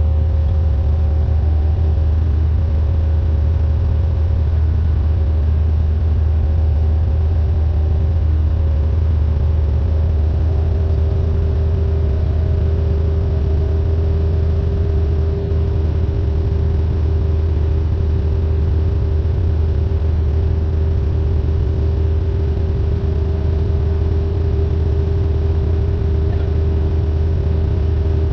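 Cessna 172N's four-cylinder Lycoming engine and propeller running steadily in flight.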